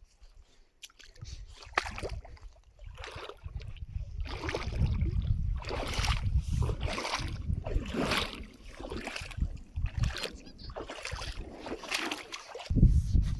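Splashing through shallow water in a steady rhythm of about one splash a second, with wind rumbling on the microphone.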